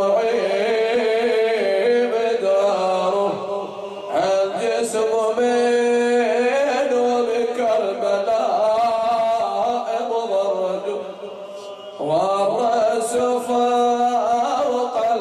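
A man chanting a mournful Arabic elegy for Husayn in a solo voice, holding long wavering notes, with a short break about four seconds in and another near twelve seconds.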